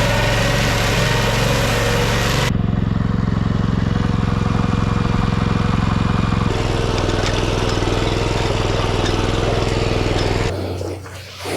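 Walk-behind tractor's small engine running steadily under load. The engine's tone changes abruptly twice, about two and a half and six and a half seconds in, and the sound falls away near the end.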